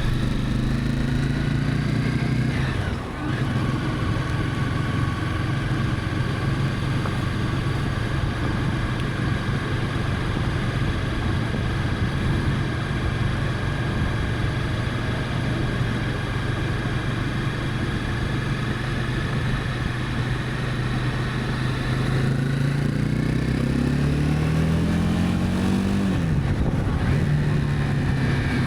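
Honda CB300F motorcycle's single-cylinder engine riding along: the revs climb and drop suddenly with a gear change about three seconds in, hold steady at cruise, then climb again and drop with another gear change near the end.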